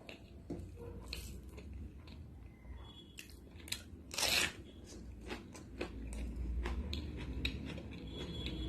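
Close-miked eating sounds: a person chewing and biting food, with scattered wet clicks and crunches and one louder crunch about four seconds in.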